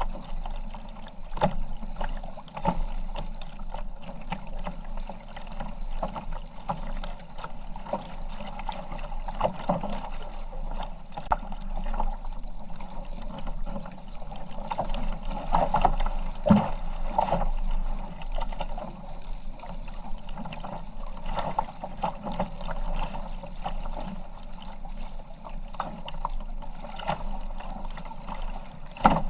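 Kayak paddling: water splashing with irregular paddle strokes and lapping around the hull.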